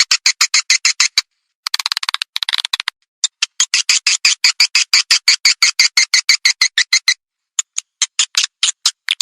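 Swiftlet calls from a lure recording: runs of short, high, rapid chirps at about nine a second, in bursts split by brief silent gaps, with a denser twittering run about two seconds in. This is the kind of call played to attract swiftlets to a nesting house.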